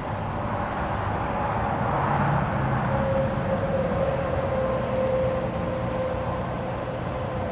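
Steady noise of a motor vehicle running, with a faint held engine tone; it swells gently over the first few seconds and then holds.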